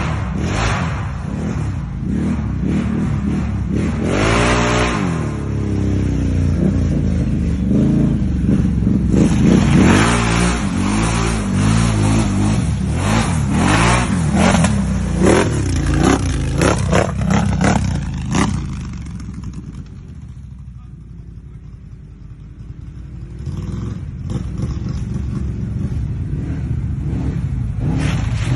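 Off-road vehicle engine revving hard over and over, its pitch rising and falling with each blip. It drops to a lower, steadier run for a few seconds about two-thirds of the way through, then builds again.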